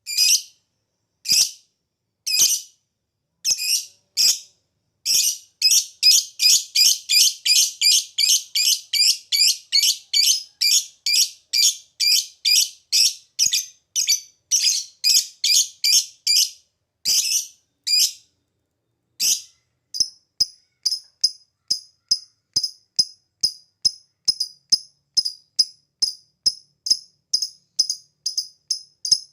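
Lovebird calling shrilly. A few separate calls about a second apart lead into a long, fast chattering run (ngekek) of about three calls a second lasting around twelve seconds. After a short pause, from about twenty seconds, comes a steady series of short, clipped ticking calls (ngetik).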